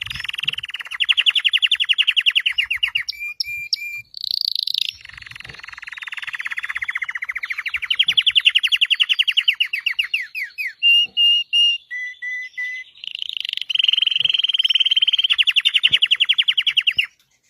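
Red canary singing: three long, very fast trills lasting several seconds each, separated by short, steady whistled notes. The song stops just before the end.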